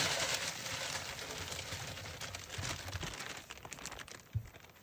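Plastic bag of frozen chips crinkling and rustling as it is emptied, the noise fading away over a few seconds, with a short knock near the end.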